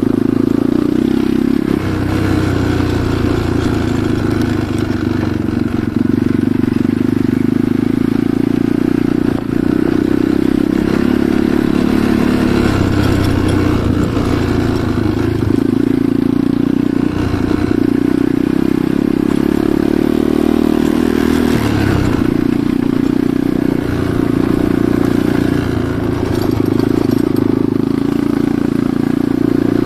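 Enduro motorcycle engine running while being ridden, its note shifting up and down with the throttle several times.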